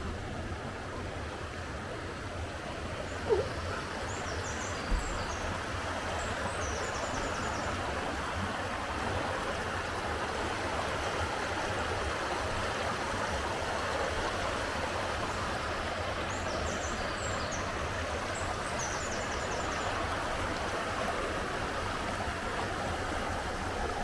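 Steady rush of river water tumbling over the rocky cascades of Golitha Falls on the River Fowey.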